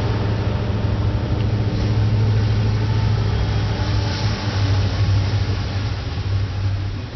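Diesel locomotive engine running with a steady deep drone.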